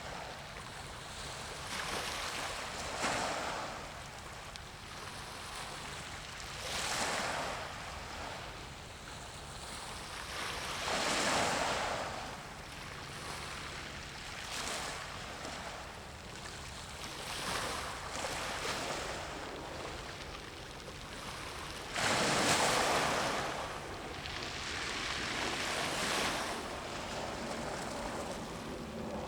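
Small waves washing in, the noise swelling and falling back in irregular surges every few seconds, with the loudest surge about two-thirds of the way through. Wind noise underneath.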